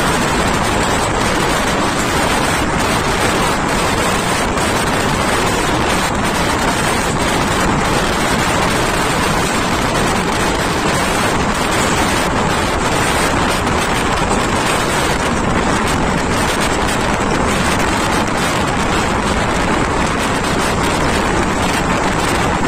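Steady running noise of a moving passenger train: wheels on the track and wind buffeting the microphone, with no change in pace.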